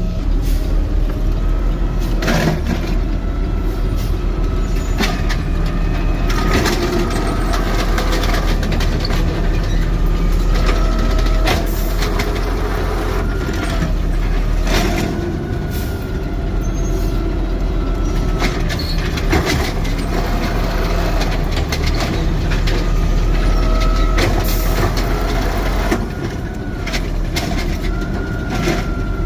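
Automated side-loader garbage truck working its lifting arm: the diesel engine and hydraulics whine in tones that rise and fall, with repeated clanks and knocks as the cans are gripped, lifted and dumped.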